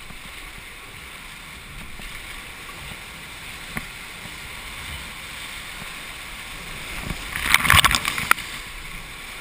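River water rushing steadily around a raft, with a loud burst of splashing water a little past the middle.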